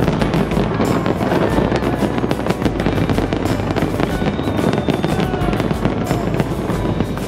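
Fireworks display, many shells bursting at once: a dense, continuous barrage of crackling and booming with no let-up.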